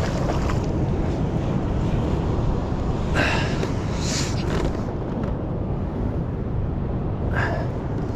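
Wind rumbling on the microphone, with three short hissing sounds about 3, 4 and 7 seconds in.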